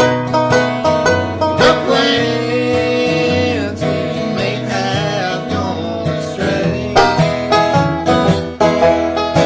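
Banjo and guitar playing a country bluegrass tune together, with quick, steady picked notes.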